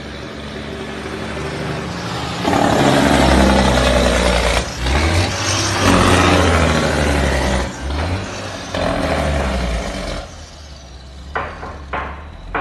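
Mack truck's diesel engine pulling hard, its note rising and then dipping briefly several times as it works through the gears, before easing off. Near the end come a few short, sharp sounds.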